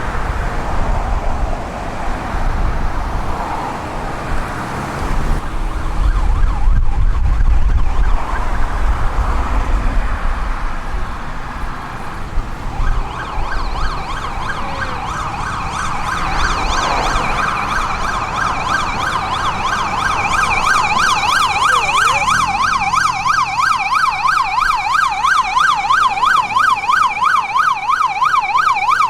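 Emergency vehicle sirens: a slow rising-and-falling wail over a low rumble, then about halfway through a fast yelp comes in and grows louder, about three up-and-down cycles a second.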